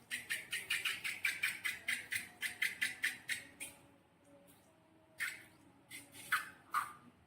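Slime being squeezed and kneaded by hand, giving quick wet squelches about four a second that stop a little over halfway through, then three separate squishes near the end.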